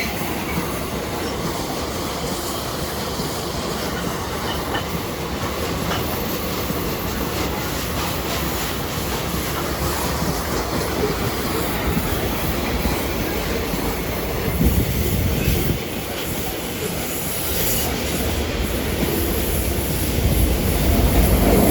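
Loaded iron-ore freight train rolling past, its wagons' steel wheels running on the rails in a steady loud noise. A deeper rumble swells near the end.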